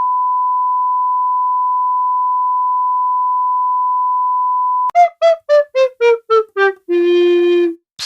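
A steady, high, single-pitch censor bleep held for about five seconds and cut off sharply. Then a quick run of about eight short electronic notes stepping down in pitch ends on one longer low note: a game-over style failure jingle.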